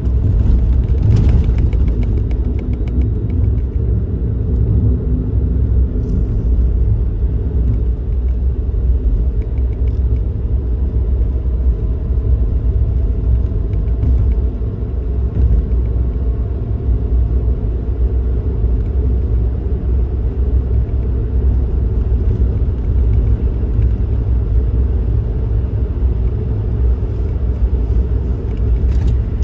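Suzuki Kei Works car driving along, a steady low rumble of road and engine noise, with a faint whine that slowly rises in pitch midway through.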